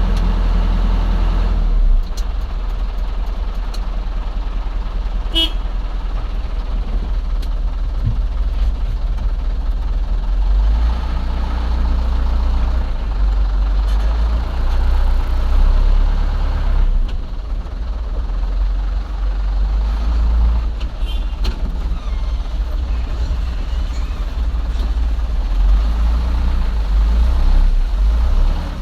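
Huina 1550 radio-controlled toy excavator working soil: a steady low engine-like rumble with a few brief clicks and knocks.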